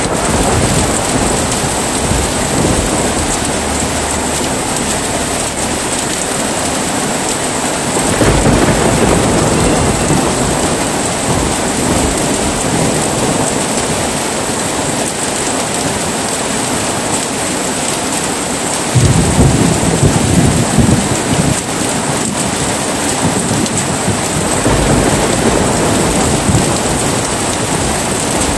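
Heavy rain falling steadily with rolls of thunder: three low rumbles, the loudest starting suddenly about two-thirds of the way through.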